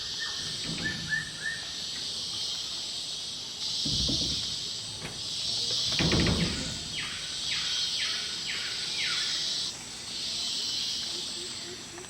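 Tropical rainforest ambience: insects buzzing shrilly in long blocks that start and stop, with short chirping and a run of quick downward-sweeping bird calls in the middle. Two low rumbles swell up about four and six seconds in.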